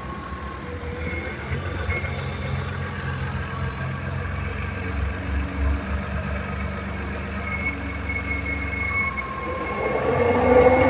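BMW engine running with a steady, high-pitched squeal over the low engine rumble; the squeal jumps up in pitch about four seconds in and drops back a couple of seconds later, and the engine noise grows louder near the end. The owner hears something rubbing or scraping but cannot tell whether it is an idler pulley, the alternator or the camshaft.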